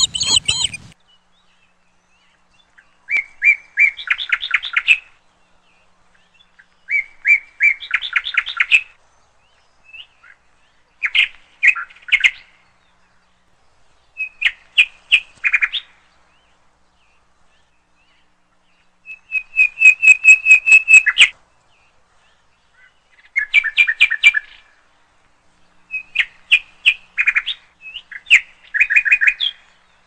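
A songbird singing: short phrases of rapid, high chirping notes, each a second or two long, repeated every three to four seconds with silences between.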